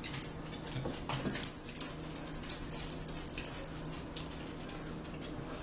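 Close-up chewing and wet mouth sounds of a person eating breaded fried fish, with irregular sharp smacks a few tenths of a second apart.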